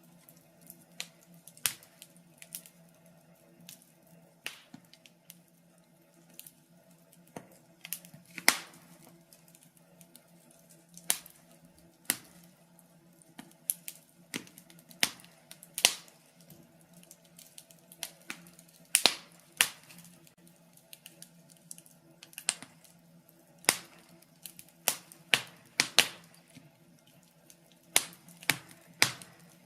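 Wood fire burning in a fireplace, crackling with irregular sharp pops, some much louder than others, over a faint steady hum.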